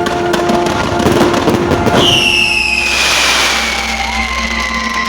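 Fireworks crackling and popping, then about two seconds in a whistling firework sets off a loud, shrill whistle that slowly falls in pitch.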